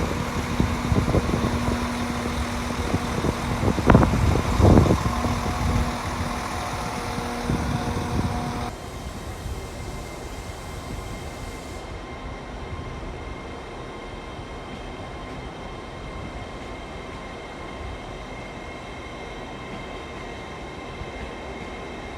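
Train running at a station platform: loud rumbling with a steady low hum and several clanks. About nine seconds in it drops suddenly to a quieter steady hum with a faint high whine.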